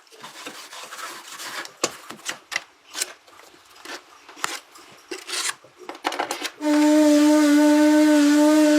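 Irregular scraping and rubbing with scattered sharp clicks, like hand work on a surface; about six and a half seconds in, a power tool starts and runs with a steady whine.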